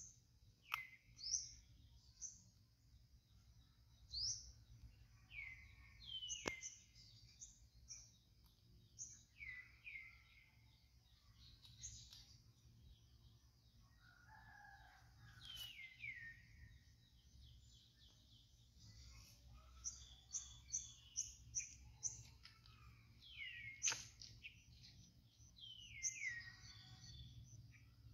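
Birds calling: short, high chirps, most of them sweeping down in pitch, repeated irregularly, with a quick run of high notes about two-thirds of the way through.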